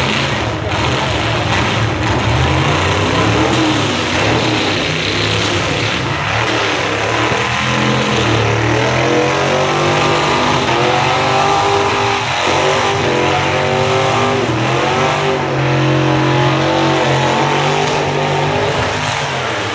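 Several demolition derby cars' engines revving hard, the pitch climbing and dropping as they ram each other, with a few sharp metal crashes of car bodies colliding.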